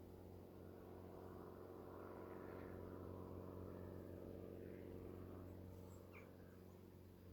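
Faint, distant engine drone that swells in and fades away again.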